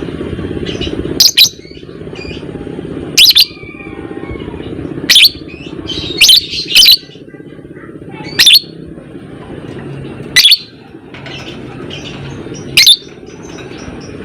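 Lovebird giving loud, shrill, short calls, about eight of them spaced one to two seconds apart, two close together around the middle, with fainter chirps between, over a steady low hum.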